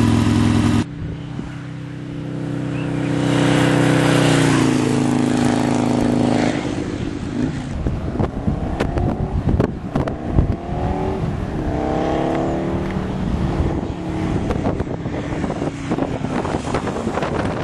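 Harley-Davidson XR1200's 1200 cc V-twin through a Harris Pipes 2-into-1 exhaust, held at steady revs for a sound-level check, cutting off about a second in. The engine then revs up and accelerates through the gears, its pitch rising in several successive sweeps, with wind noise and clicks behind it.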